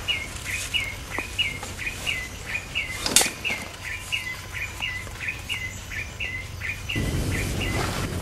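A bird repeating one short, hooked chirp about twice a second at an even pace. A sharp click about three seconds in, and a low rustling that starts near the end.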